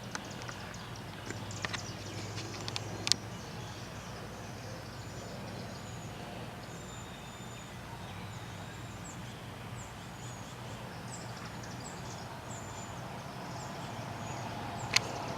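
Faint high chirps of small birds, many short calls in the middle of the stretch, over a steady low hum. A few sharp clicks or taps come in the first three seconds, and another one near the end.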